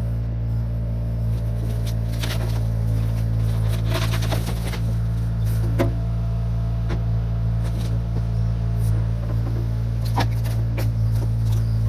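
1972 Chevrolet C50 dump truck's engine running at a steady speed, a low drone, with scattered knocks and rattles.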